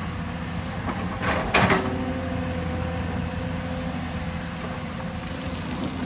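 Hyundai hydraulic excavator's diesel engine running steadily under work, with a short, loud scrape about a second and a half in.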